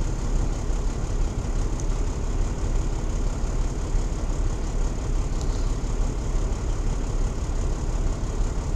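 Peterbilt 379 truck's diesel engine idling steadily, a constant low hum heard from inside the cab.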